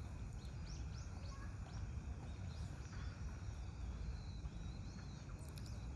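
Small birds chirping, many short high calls one after another, over a steady low rumble.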